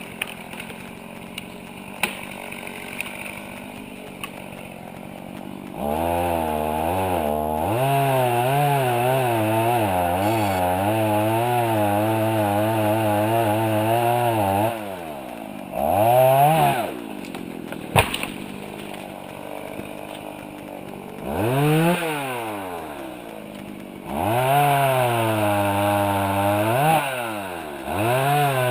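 An engine revving under load, its pitch wavering while it is held high for about eight seconds, then revved again in short bursts that rise and fall several times.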